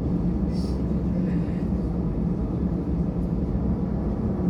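Steady low cabin drone aboard a LATAM Airbus A320, with a constant hum.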